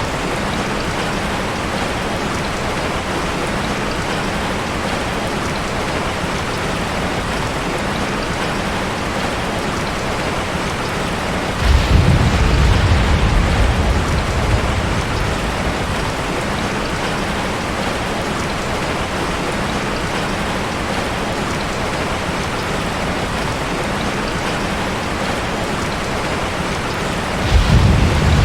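Steady rain falling, with two low rumbles of thunder: one about twelve seconds in that fades over a few seconds, and another starting near the end.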